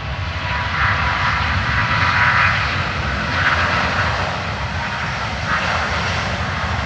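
Airbus A350's Rolls-Royce Trent XWB turbofan engines at takeoff power: a loud, steady jet roar over a deep rumble, swelling a little in the first few seconds.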